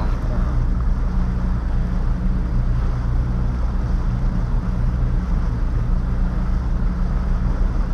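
Boat engine running steadily while underway, a constant low drone with a rushing noise over it.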